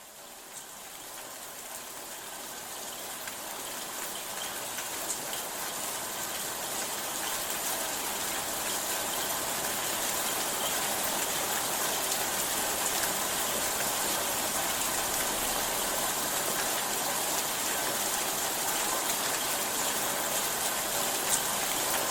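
Steady rain falling, an even hiss with scattered tiny drop clicks, fading in over the first several seconds and then holding level.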